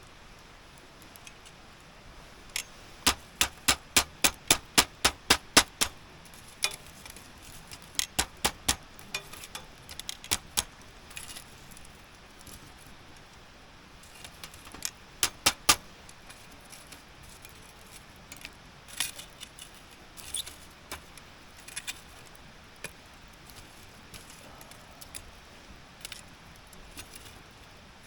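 A series of sharp clicks: a quick, even run of about three a second, then shorter clusters and scattered single clicks.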